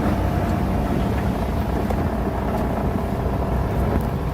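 Diesel engine of heavy earthmoving machinery running steadily, with a faint steady whine that stops about four seconds in.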